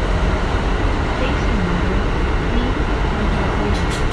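Kintetsu 1420 series electric train running at speed, heard from inside the car: a steady rumble of wheels and running gear on the track, with a few brief clicks near the end.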